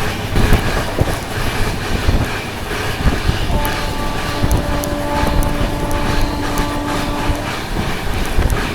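Passenger train running along the track, with steady wheel noise and repeated clicks from the rail joints. A horn sounds for about four seconds in the middle.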